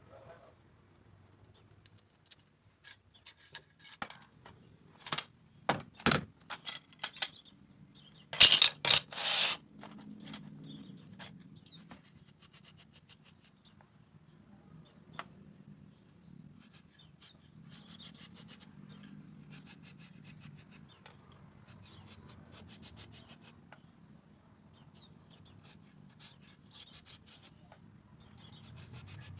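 A run of sharp knocks and clicks from bamboo being worked by hand, loudest and densest in the first third. Small birds chirp now and then over a faint low hum.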